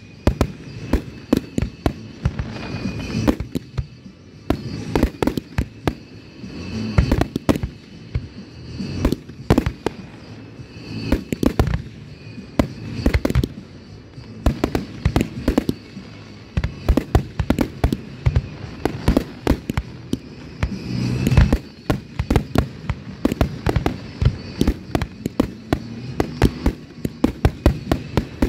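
Fireworks display: a dense barrage of aerial shells bursting, with many sharp bangs in quick, uneven succession and crackling between them.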